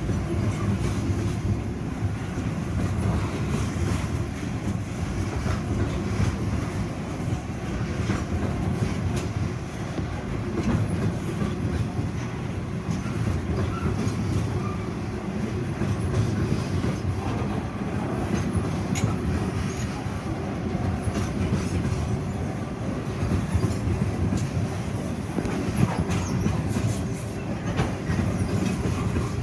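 Grain train wagons rolling steadily past: a continuous low rumble from the wheels and bogies, with repeated clicking as the wheels pass over rail joints.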